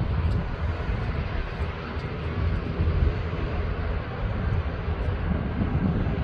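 Airbus A350's Rolls-Royce Trent XWB jet engines at takeoff power: a steady, deep rumble.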